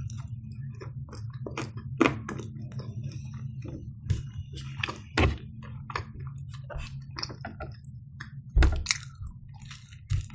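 A person chewing food close to the microphone: soft wet mouth sounds and many small clicks, with a few louder clicks about two, five and nine seconds in.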